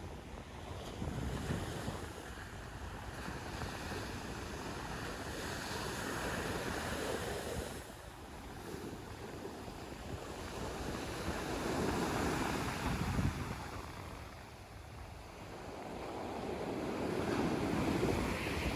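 Sea waves breaking and washing ashore, the surf swelling and fading every few seconds, with wind buffeting the microphone.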